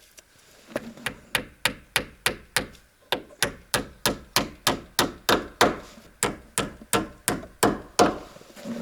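A hammer striking wood in quick, even blows, about three a second, starting just under a second in: nails being driven to fix wooden offcut pieces in place.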